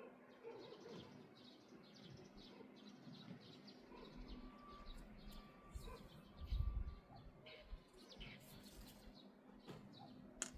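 Wild birds chirping, many short high calls repeating, with a thin whistled note near the middle. About six and a half seconds in, a brief low rumble is the loudest sound.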